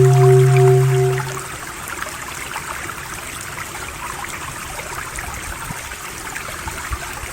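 Running water, a stream trickling and splashing steadily. A low droning tone with a slight pulse cuts out about a second in.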